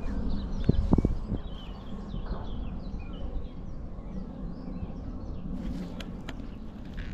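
Small birds chirping and singing in quick short phrases over a steady low rumble of wind on the microphone, with a couple of low thumps about a second in.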